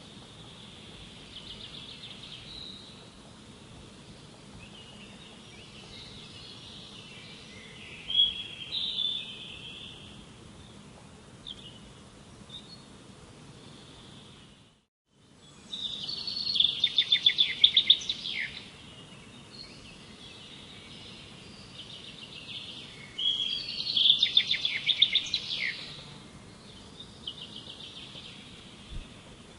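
Songbird singing in repeated phrases of rapid trilled notes, high-pitched, over a steady background hiss. The sound cuts out for about half a second midway, and the loudest trills follow just after.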